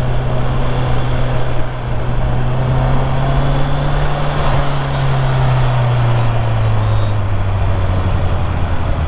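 Honda CBR650R's inline-four engine running steadily on the move, with road and wind noise; the engine note eases slightly lower near the end.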